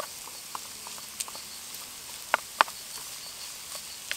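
Bacon and chopped mushrooms sizzling in the Trangia Mini's small frying pan, a steady hiss with scattered sharp pops, the two loudest about two and a half seconds in.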